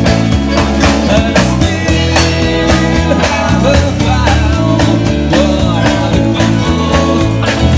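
Rock band playing live: electric guitar, bass and drums with a steady beat.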